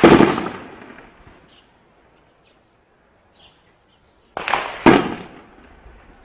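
Gunfire: a loud report right at the start rings away for about a second. About four seconds later comes a sharp crack, then half a second after it a louder report that rings away.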